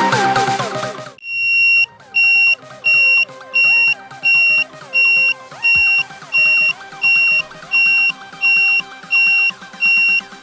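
Buzzer driven by an NE555 timer circuit beeping over and over, one high steady tone switched on and off about three times every two seconds. Loud electronic music cuts away about a second in, and faint music goes on under the beeps.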